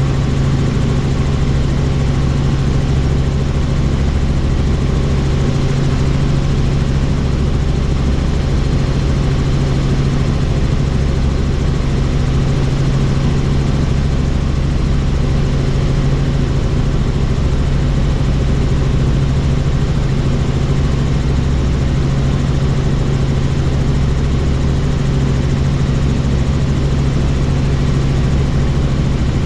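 Helicopter in flight, heard from inside a cabin with the doors off: a steady, unchanging drone of engine and rotors with rushing air noise over it.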